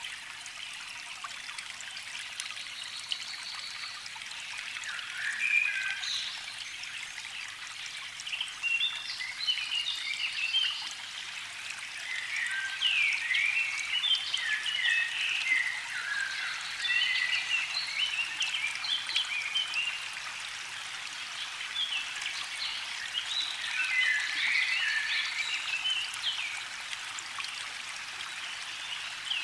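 Songbirds singing in bursts of quick, chirping, sliding phrases over a steady hiss.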